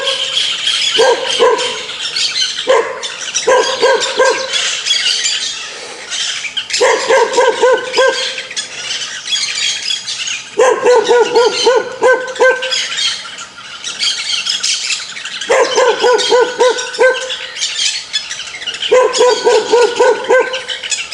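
A dog barking in quick runs of several barks at a time, with short pauses between the runs, about seven runs in all.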